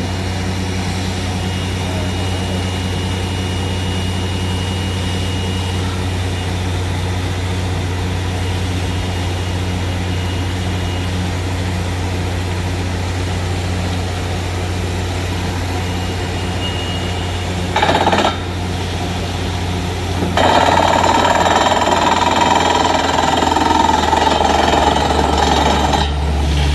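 Borewell drilling rig's engine running steadily with a deep drone. About 18 seconds in a short loud burst of noise is heard, and from about 20 seconds a louder rushing noise joins the drone for several seconds, then drops back.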